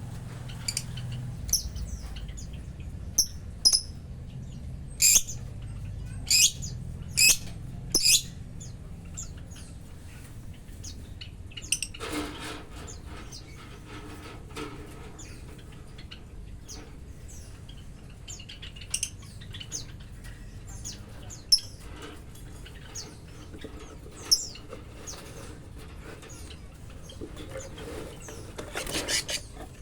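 Lovebirds giving short, sharp, high-pitched chirps. The calls come thick and fast for the first several seconds, then thin out to scattered calls, and bunch up again near the end, over a steady low hum.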